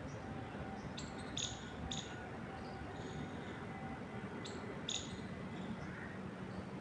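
Birds chirping, short high chirps in two little clusters, about a second in and again near five seconds, over a steady soft rush of wind through trees.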